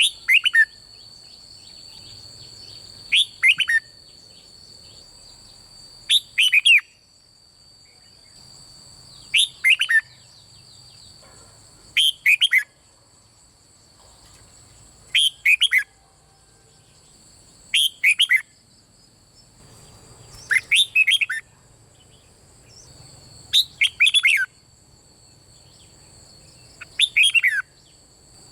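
Red-whiskered bulbul singing short, loud phrases of quick falling whistled notes, about one phrase every three seconds, ten times over. A faint, steady high-pitched whine runs underneath.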